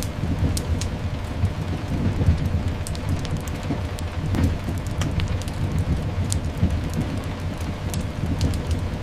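Layered sleep ambience: steady rain hiss over a continuous low rumble of distant thunder and train movement, with scattered sharp fireplace crackles throughout.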